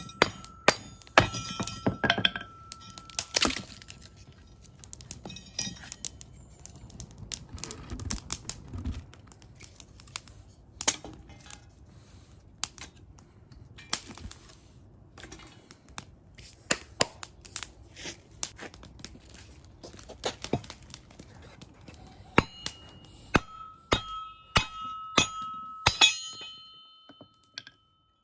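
Firewood being handled and burned: many irregular sharp knocks, snaps and cracks of wood, with a metallic ring that hangs on for a couple of seconds near the start and again near the end.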